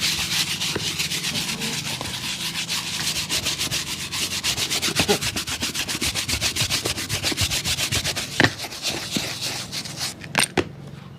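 Quick, even back-and-forth rubbing strokes on a shoe during restoration. The strokes stop about ten seconds in, followed by a few sharp clicks.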